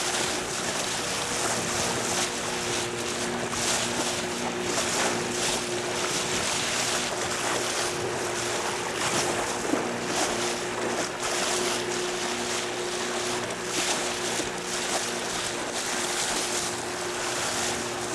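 A boat's motor running steadily, with rushing water and gusts of wind on the microphone.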